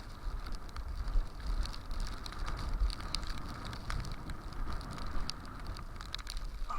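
Blizzard wind buffeting the microphone in a steady low rumble, with many small irregular ticks of driven snow striking.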